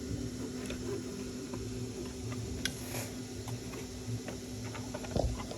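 Small clicks and taps from handling plastic model parts and thin wires, a few of them sharper, over a steady low hum.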